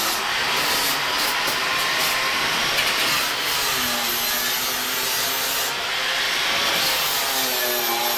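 Handheld power tool abrading with a steady rasping noise over a motor hum whose pitch sags in the middle and comes back up near the end, as the tool is pressed in and eased off.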